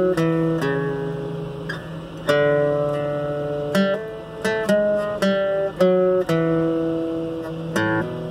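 Acoustic guitar played solo as an instrumental break: chords struck about once or twice a second and left to ring, with a few quicker changes near the end.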